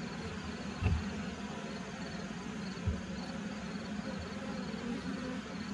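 Honeybees from an open hive buzzing in a steady hum, with two soft low thumps about one and three seconds in.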